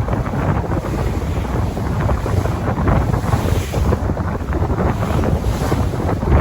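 Ocean waves washing in continuously, with wind buffeting the microphone in a steady low rumble.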